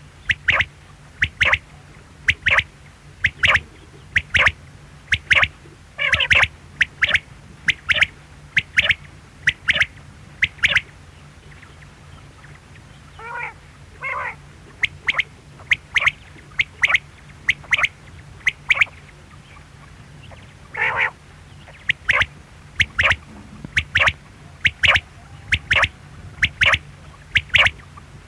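Quail calling: a long run of short, sharp, high calls at about two a second, broken around the middle by a few longer, lower calls, over a steady low hum.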